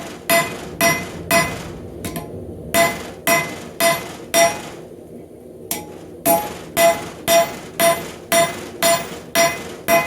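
Blacksmith's hand hammer striking hot rebar on the anvil, about two ringing blows a second with two brief pauses, drawing out and spreading the knife's blade end.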